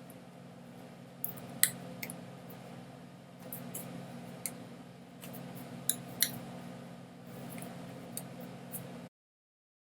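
Scattered short, sharp clicks over a steady low hum, then the sound cuts off abruptly to silence about nine seconds in.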